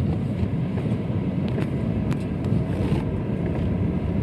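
Car driving slowly over a rough unpaved road: steady low rumble of engine and tyres, with a few light knocks and rattles.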